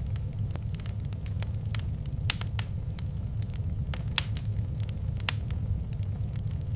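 Wood fire crackling in a fireplace, with irregular sharp pops of varying loudness over a steady low rumble; a few louder snaps stand out about two, four and five seconds in.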